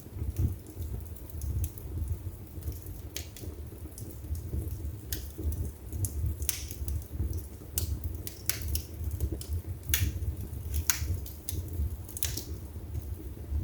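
Wood burning in a fireplace: irregular sharp crackles and pops from the burning logs over a low steady rumble of the flames.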